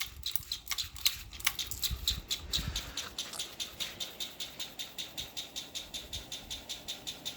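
Canarm Twister 30-inch three-blade ceiling fan running on high, with a rhythmic squeaking tick about five or six times a second that settles into an even beat after the first few seconds. The squeak is the motor rubbing on its housing because the fan is resting on the floor, not bearing noise.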